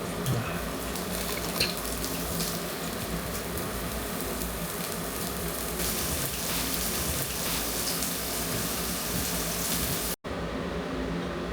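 Steady hissing noise with a few light clicks early on. About ten seconds in it breaks off in a brief dropout and gives way to a quieter, low hum.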